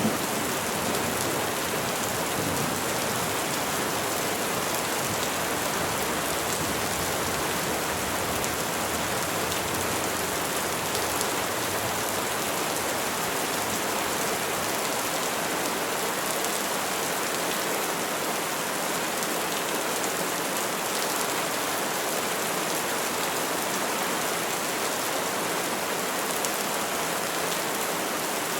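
Steady rainfall, an even unbroken hiss of drops with no let-up or change.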